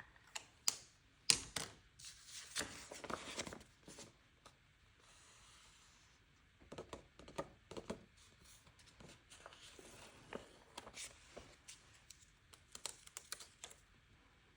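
Close handling of planner paper and sticker sheets: a dense run of crinkly rustling and peeling in the first few seconds, then scattered small taps and rustles.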